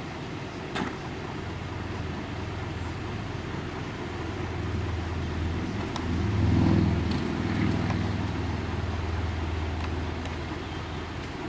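Scania CR112 bus's diesel engine running with a steady low hum, swelling louder about six seconds in as it pulls, then easing back. A few light clicks sound over it.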